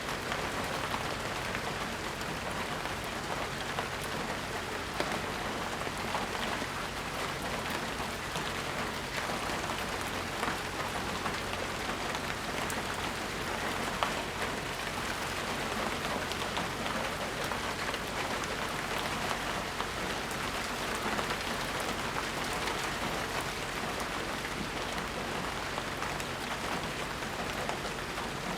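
Steady rainfall, a constant even hiss of rain falling on surfaces with many small drop patters.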